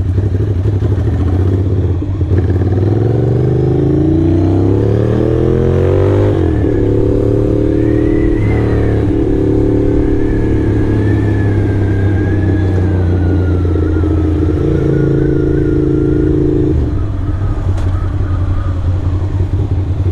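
Ducati motorcycle's L-twin engine pulling away from low revs, the revs climbing steadily for a few seconds, then holding steady at cruising speed before the throttle eases off near the end.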